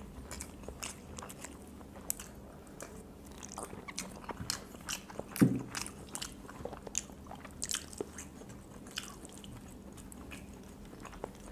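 People chewing and biting boiled quail eggs quickly: faint wet mouth noises and scattered small clicks, with one louder brief sound a little past the middle.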